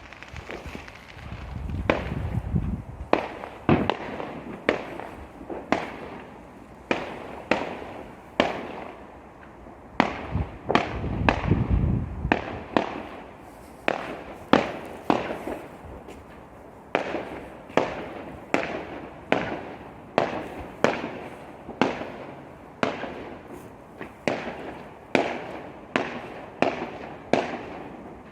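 Fireworks going off: a long string of sharp bangs, roughly one a second, each with a brief echoing tail. Longer low rumbling bursts come about two seconds in and again around ten to twelve seconds in.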